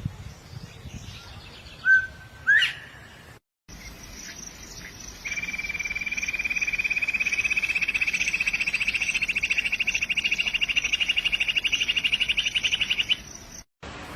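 Birds calling: two sharp upward-sweeping calls about two seconds in, then a long rapid trill that rises slowly in pitch and runs for about eight seconds before stopping.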